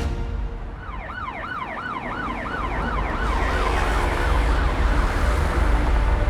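A siren in a fast yelp, its pitch rising and falling about three times a second, over a low rumble. It starts about a second in and fades under a building wash of noise.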